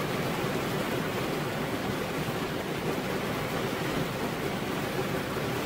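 Heavy rain pouring steadily onto a veranda roof: a dense, even hiss with no single drops standing out.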